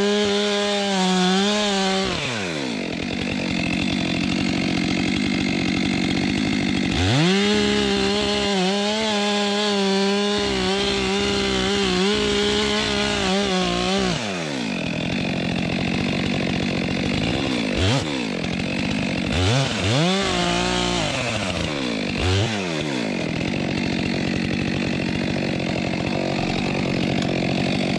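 Stihl two-stroke chainsaw bucking a fallen log that is under tension. It is revved to full throttle for about two seconds, drops back, then is held at full speed from about seven to fourteen seconds in, followed by three short throttle blips and running at idle.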